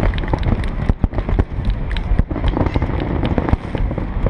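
Aerial fireworks going off: a rapid, dense string of sharp bangs and crackles over a continuous low rumble of bursts.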